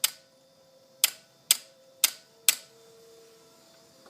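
2007 Ducati 1098 clicking sharply, five times about half a second apart, instead of cranking when the starter button is pressed. A faint steady hum follows. The owner suspects a failed voltage regulator.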